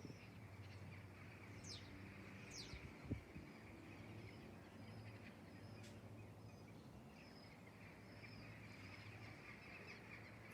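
Faint outdoor ambience: distant birds chirping and twittering, with two quick falling chirps about two and three seconds in, over a low steady hum. A soft thump comes just after three seconds.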